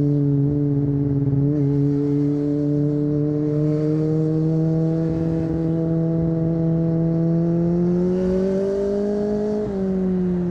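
Kawasaki ZX-25R's 250 cc inline-four engine with an Akrapovic exhaust, heard onboard while riding: the engine note climbs slowly as the bike accelerates, rises faster near the end, then drops suddenly as the throttle is closed or a gear is changed, and begins to fall.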